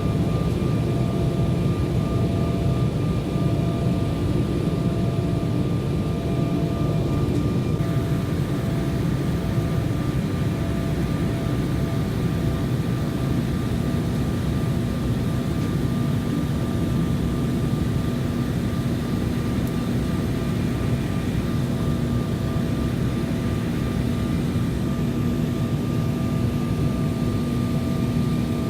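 Steady cabin noise inside an Embraer 190 airliner in flight: the drone of its twin turbofans and rushing airflow, with a few faint steady tones over it. A lower hum joins about halfway through.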